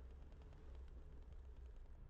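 Faint, steady low rumble of wind and road noise during a bicycle ride, with a few light ticks.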